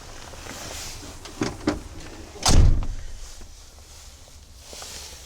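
Truck cab door shut with one heavy thud about halfway through, after a couple of light clicks.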